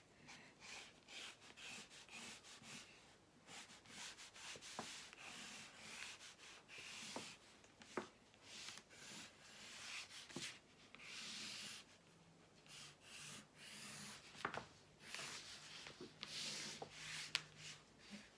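Quiet, irregular scratching strokes of a drawing tool on folded cardboard as a fir-tree outline is traced.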